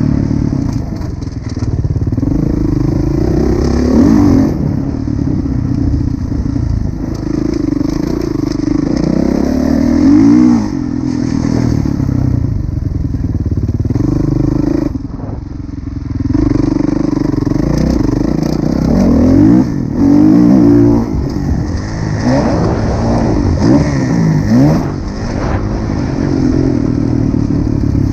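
2016 Kawasaki KX450F four-stroke single-cylinder motocross engine being ridden hard. It revs up and falls back over and over, with short lifts off the throttle between pulls.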